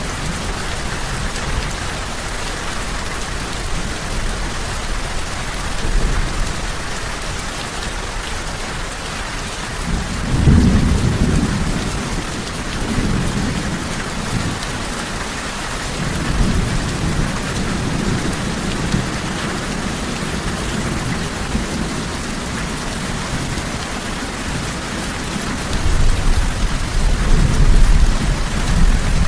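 Steady rain hiss with rolls of low thunder. One rumble swells about ten seconds in, another follows midway, and the loudest comes near the end.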